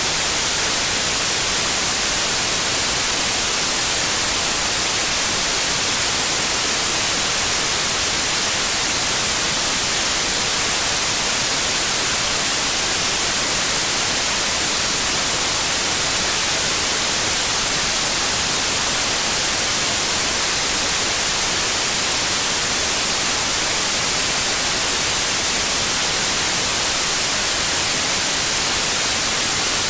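Steady, continuous white noise: an even hiss, strongest in the high frequencies, with no changes in level.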